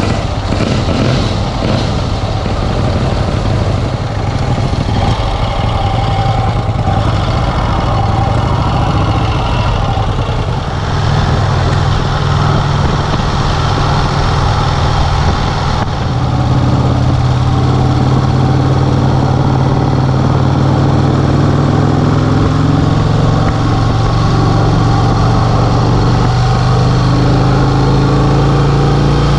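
1951 Vincent Rapide's 998 cc V-twin engine running steadily, its note changing about a third of the way through and again about halfway.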